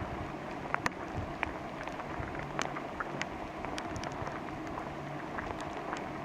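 Steady rain falling through the forest, with scattered individual drops ticking sharply close by.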